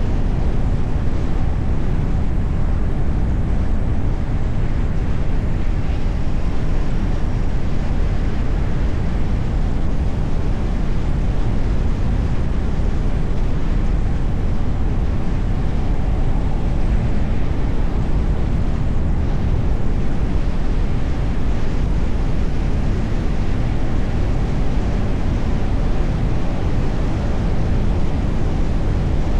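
Steady rumble of a car driving along, tyre and wind noise heaviest in the low range, with no distinct events.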